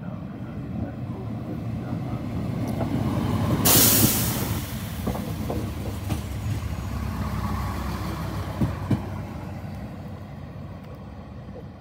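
Train moving through a station: a low rumble builds and fades, with a short loud hiss about four seconds in and two sharp knocks near the end.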